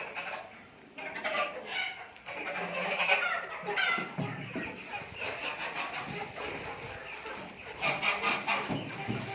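Backyard chickens clucking, with other poultry calling among them in a steady chatter of short calls.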